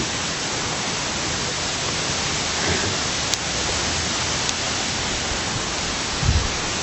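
Steady rushing of water in a gorge stream or artificial waterfall, an even hiss with no breaks. A short low sound comes near the end.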